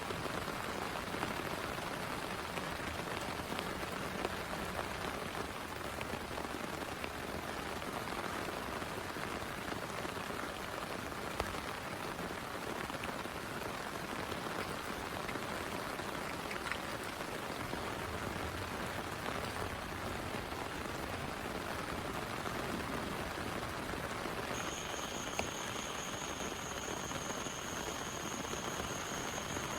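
Steady rain falling, with a few sharper drop ticks. About three-quarters of the way through, a thin, steady high tone comes in and holds.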